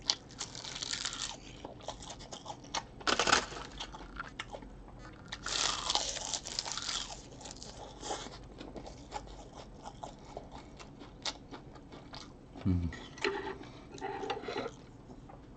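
Close-miked chewing and crunching of a mouthful of rice wrapped in seasoned seaweed, with wet mouth noises. The crunching comes in bursts, strongest at the start, about 3 seconds in, and around 6 seconds. A brief low hum of the voice comes near the end.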